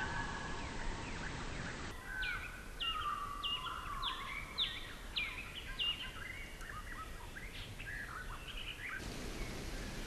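Several wild birds chirping and calling over a steady background hiss. About two seconds in the recording changes and a run of sharp, falling chirps repeats roughly twice a second, with lower warbling calls beneath; near the end the birds fade back into the hiss.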